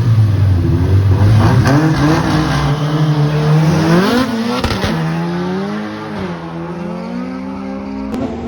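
Cars accelerating hard down a drag strip, the engine note climbing and then dropping sharply at a gear change about four seconds in before climbing again.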